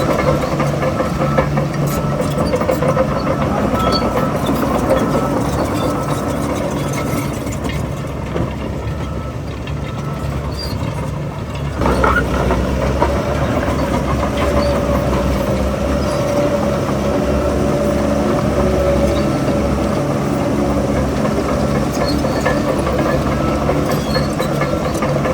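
Heavy earthmoving machinery's diesel engine running under load. About twelve seconds in there is a sharp clank, and after it the engine's low rumble grows deeper and louder.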